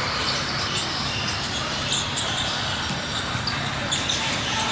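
Basketball game in a gym: the ball bouncing on the court over a steady din of players and spectators, with many short, sharp high clicks scattered through it.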